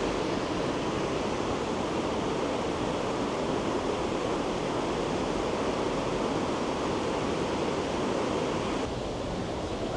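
A steady rushing noise, even and unbroken, that drops slightly in level near the end.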